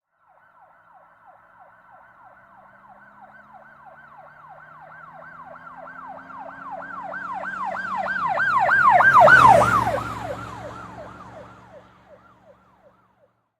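An emergency vehicle's siren goes by, a quick repeated falling wail about three times a second. It grows louder to a peak about nine seconds in and then fades away. A lower vehicle hum drops in pitch as it passes.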